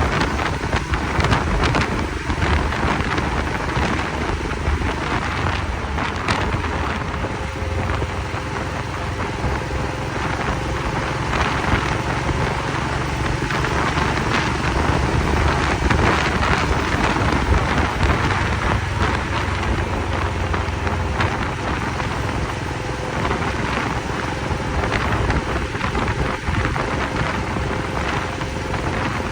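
Heavy wind rushing over the microphone of a moving motorcycle, a steady roar with the motorcycle's engine and road noise underneath. The low rumble eases about two-thirds of the way through.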